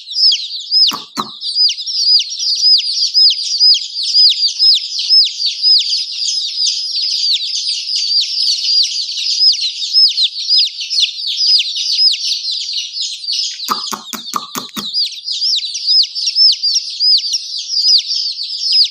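Baby chicks peeping continuously, many short high chirps a second from several chicks at once. A brief low thump comes about a second in, and a quick run of low pulses comes about three-quarters of the way through.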